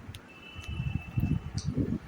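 Close-up eating sounds: irregular chewing and mouth noises over the microphone, louder in the second half, with a few small clicks near the start.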